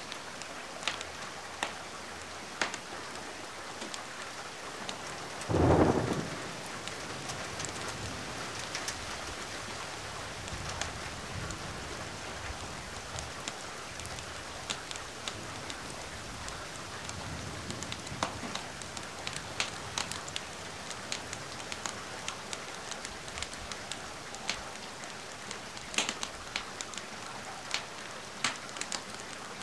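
Steady rain falling, with scattered sharp crackles from a wood fire. About six seconds in, a single short, loud thump stands out.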